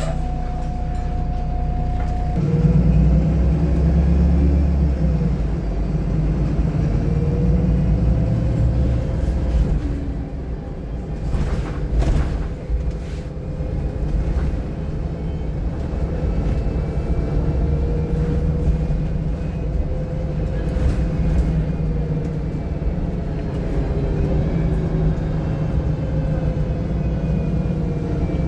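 VDL SB200 single-deck bus heard from inside on the move: a steady low engine and road rumble whose engine note slowly rises and falls as it pulls and eases off. A few short noisy bursts come about twelve seconds in.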